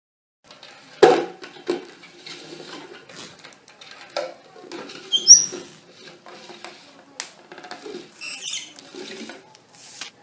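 Scattered light clicks, knocks and rattles of small objects being handled, with a few brief high squeaks from a pet parrot about halfway through and again near the end.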